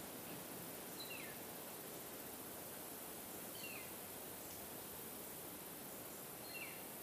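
A bird calls three times, a little under three seconds apart; each call is a short high note followed by a quick falling one. Behind it is a steady outdoor hiss.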